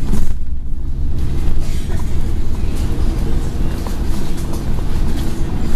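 Scania N113 bus's engine and drivetrain running steadily with the bus under way, heard from inside the bus, with small rattles from the body.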